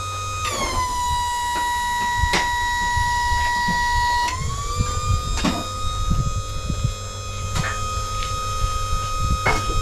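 An electric power tool's motor whines steadily. Its pitch drops about half a second in as it is loaded against the work, holds low for about four seconds, then climbs back as the load comes off. A few sharp metal knocks are heard alongside.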